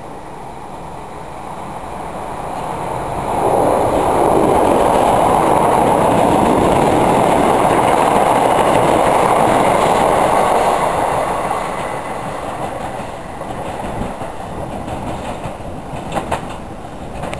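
Southern electric multiple-unit train running through along the platform, its wheels rumbling and clattering on the rails. The sound builds over a couple of seconds, stays loud for about seven seconds, then fades away.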